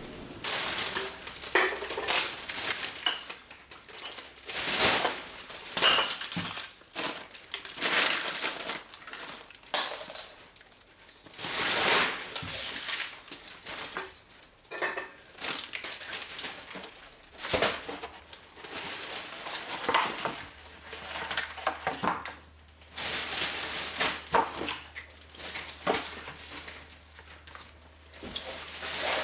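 Irregular clattering and crunching of dishes, bottles and rubbish being picked up, moved and gathered, in uneven bursts with short pauses between.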